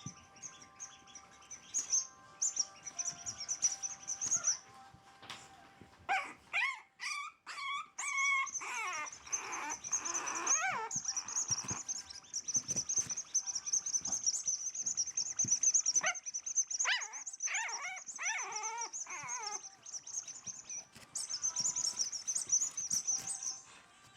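Four-week-old French Bulldog puppies whimpering and crying in several bouts of high, wavering calls.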